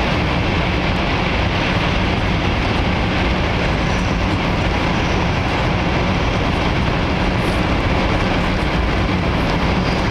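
Steady rushing and rumbling noise of a Taiwan High Speed Rail 700T train running at speed.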